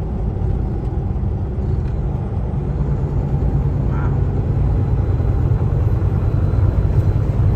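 Kenworth T680 semi truck driving on the highway: a steady low rumble of engine and road noise that grows slightly louder toward the end.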